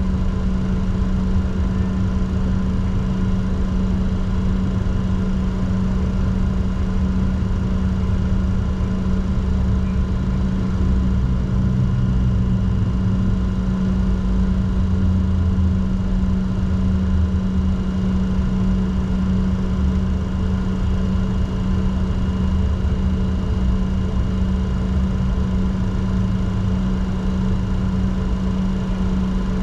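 Steady cockpit drone of a Bombardier Challenger 604 with its GE CF34 turbofans running, not spooled up for take-off. A constant low hum with steady higher whining tones over a low rumble that swells and eases slightly.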